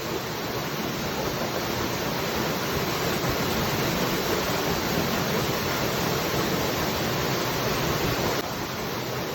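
Waterfall: a steady, dense rush of falling water, dropping slightly in level near the end.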